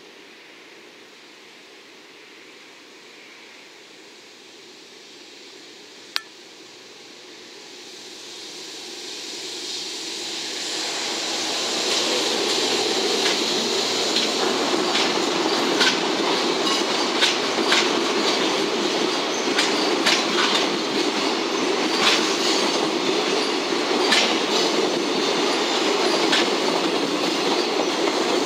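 JR Freight EF210 electric locomotive and its container wagons approaching and passing. The sound builds over several seconds from low background noise, with one sharp click about six seconds in. Then comes a loud, steady run of wheels on rail, with irregular clicks over the rail joints and a high squeal.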